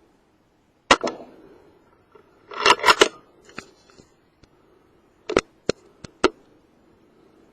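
A Theoben Rapid 7 air rifle going off with a sharp crack about a second in, followed by a quick cluster of clicks and knocks around three seconds and four more sharp single clicks near the end, the sound of the rifle being handled and cycled.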